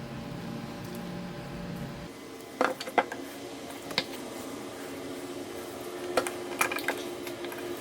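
A steady hum cuts off about two seconds in, then scattered sharp clicks and light metallic clinks of small parts being handled, with a cluster of them near the end.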